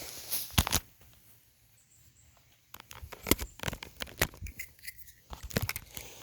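Irregular rustling and sharp clicks of close handling noise, stopping for about two seconds near the start and then coming thick and uneven again.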